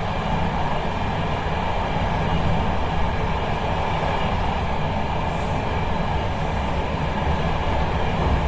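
Steady rumble and running noise of an intercity train, heard from inside a carriage.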